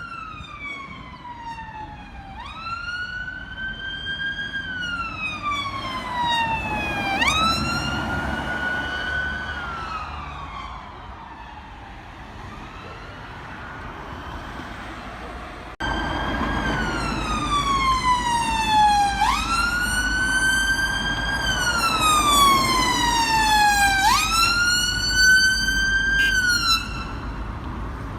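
Emergency vehicle siren wailing, each cycle gliding slowly down in pitch and then snapping back up, about every two and a half seconds, over a low rumble. It fades about halfway through, comes back suddenly louder, and cuts off shortly before the end.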